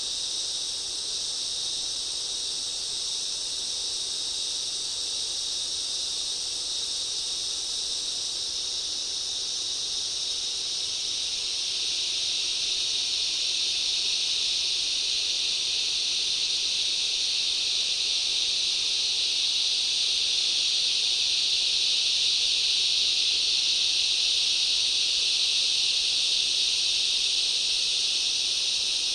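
Dense, steady chorus of insects in a forest, a continuous high-pitched shrill that swells louder about twelve seconds in.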